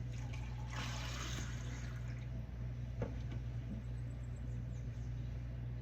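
Water poured into a small cup, running for about a second near the start, followed by a single click about three seconds in, over a steady low hum.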